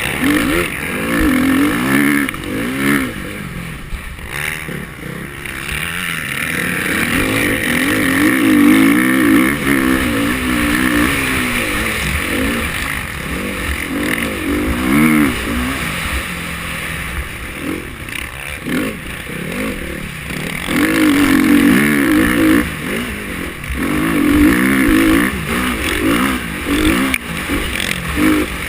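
KTM 350 XC-F motocross bike's single-cylinder four-stroke engine revving hard and backing off again and again as it is ridden around a track. The pitch rises and falls repeatedly, with brief let-offs now and then.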